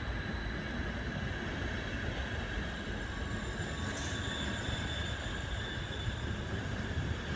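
ÖBB passenger coaches rolling slowly along the platform track: a steady rumble of wheels on rail, with a brief high-pitched squeak about four seconds in.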